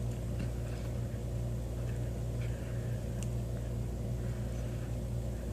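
Steady low mechanical hum with a few faint, soft clicks over it.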